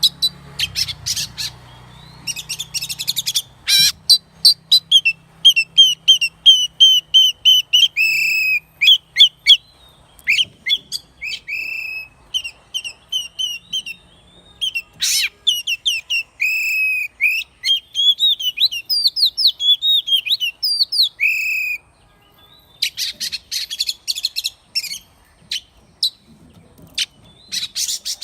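Oriental magpie-robin singing: a varied run of clear whistled phrases, some notes repeated several times in quick succession. Bursts of rapid, harsh scratchy notes come near the start and again toward the end.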